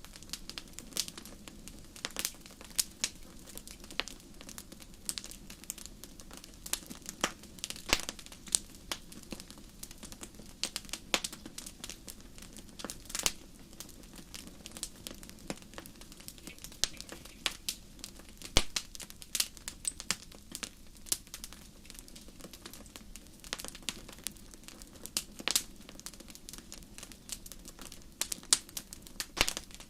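Wood fire burning on a fireplace grate, crackling with many sharp pops at irregular intervals over a low steady rush of the flames.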